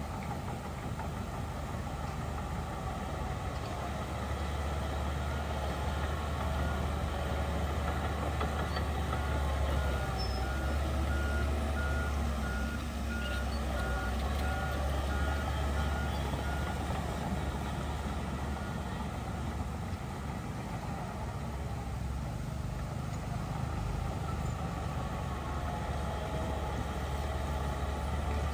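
Heavy diesel earthmoving machinery running steadily with a deep, constant engine sound. A reversing alarm beeps at an even rate from about six seconds in to about seventeen seconds in.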